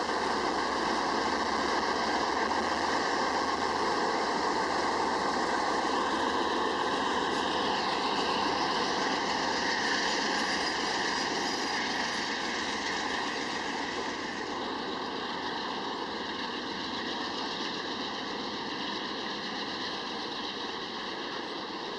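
Train rolling past, a steady rumble and rush of wheels on rail that slowly fades in the second half.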